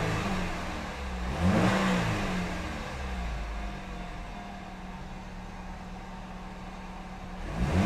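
2007 Pontiac G6's 2.4-litre four-cylinder engine revved in two quick blips that rise and fall in pitch, then settling to a steady idle, with another rev starting near the end.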